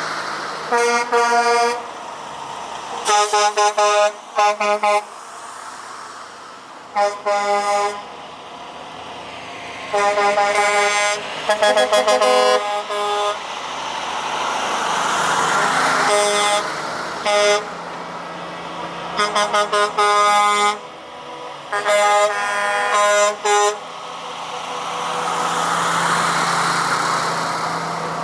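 Prime-mover trucks' air horns sounding again and again in short and longer blasts, with engine noise swelling and fading as trucks drive past between the blasts.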